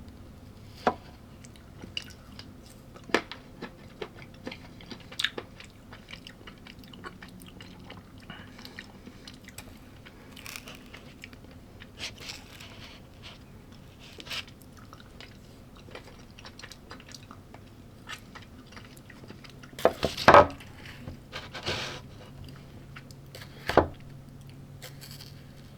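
A person chewing and biting food close to the microphone, with scattered crunches and small clicks and a louder cluster of crunching about three-quarters of the way through.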